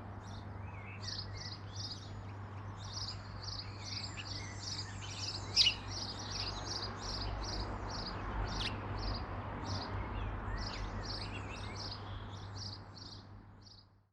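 A garden bird singing a long series of short high notes, about three a second, over a steady low hum. A sharp click about five and a half seconds in; the sound fades out at the end.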